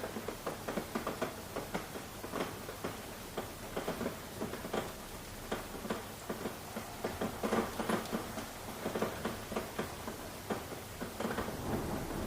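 Rain falling steadily, with many irregular drops pattering and dripping close by.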